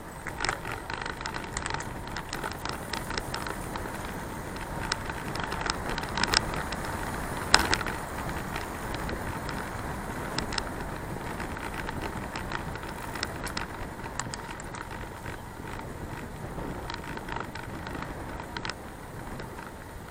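Bicycle riding noise picked up by the action camera's microphone: a steady rush of tyre and wind noise with frequent rattling clicks, and one sharper knock about seven and a half seconds in.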